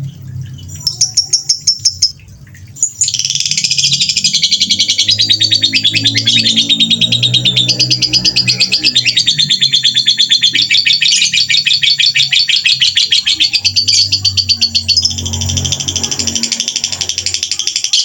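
Songbird singing a fast, rattling song of rapid repeated notes: a short burst about a second in, then a continuous run of quick notes from about three seconds on, in the rapid-fire 'tembakan' style.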